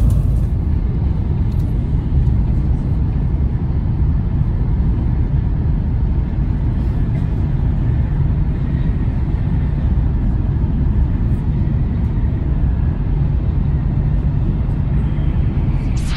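Shinkansen bullet train running at speed, heard from inside the passenger cabin: a steady low rumble.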